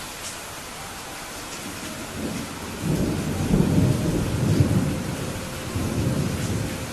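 Steady rain falling, with a roll of thunder that builds about two seconds in, rumbles loudest in the middle and fades out near the end.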